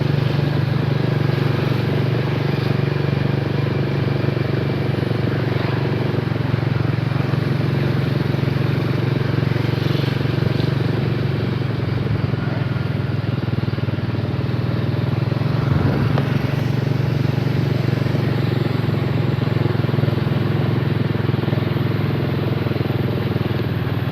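Small motorcycle engine running at a steady speed while being ridden, with a constant low hum and road or wind noise.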